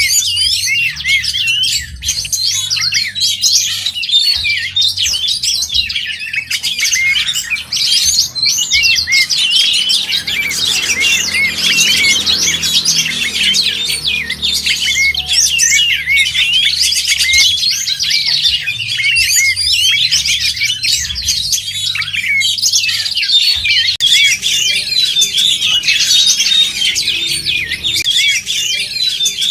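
Oriental magpie-robin (kacer) singing loudly and without a break: a dense stream of rapid, varied whistles and chirps.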